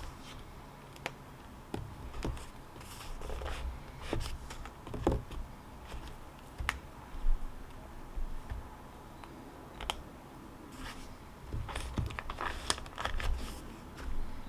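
Scattered light clicks, taps and short rustles of paper and stationery being handled at a desk, irregular and sparse, over a low background hum.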